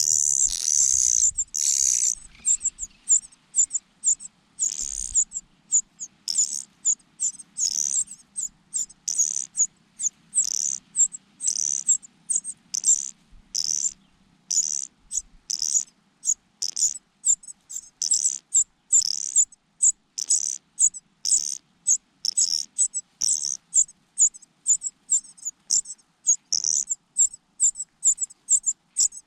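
Nestling birds begging: very high, thin, rapid cheeping calls in short bursts that repeat about once or twice a second, most intense in the first couple of seconds.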